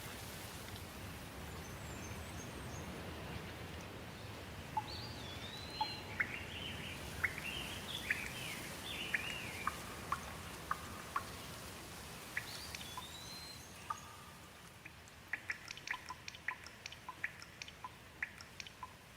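Steady rain with birds chirping and calling over it in short rising and falling notes. About two-thirds of the way in the rain grows quieter, and many short sharp ticks stand out.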